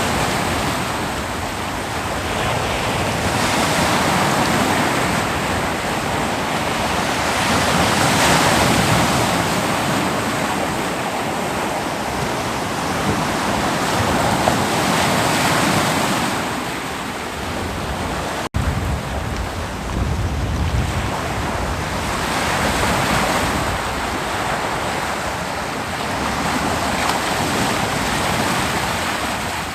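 Ocean waves breaking and washing up a beach in a continuous surge, each swell building and fading every few seconds, with some wind on the microphone. About two-thirds of the way through there is a momentary dropout, after which a deeper rumble comes in.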